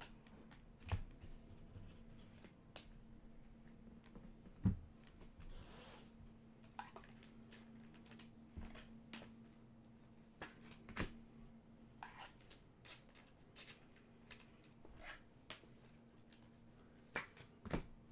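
Trading cards being handled and sorted by hand: scattered soft clicks and taps at irregular intervals, over a faint steady hum.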